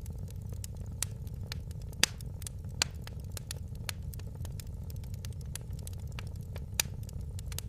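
Wood fire crackling: frequent small snaps and a few louder pops over a steady low rumble. The loudest pop comes about two seconds in, with others near one, three and seven seconds.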